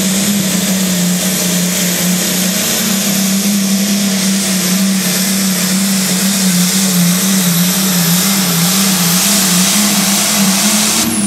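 A pulling tractor's engine held at full throttle as it drags the weight sled: a loud, steady note with a thin high whine, wavering slightly. Just before the end the engine throttles back and the whine and the engine note fall in pitch as the pull finishes.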